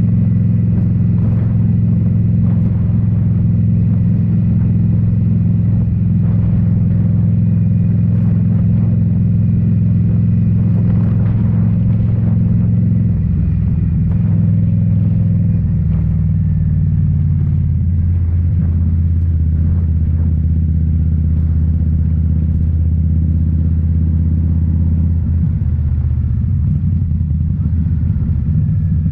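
2018 Indian Scout Bobber's liquid-cooled V-twin running through Rinehart slip-on mufflers while riding at a steady speed. About halfway through, the engine note falls and settles lower as the bike slows.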